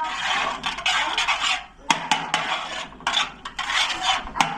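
Repeated scraping strokes with sharp clinks of metal against a hard container, with a short pause a little under two seconds in.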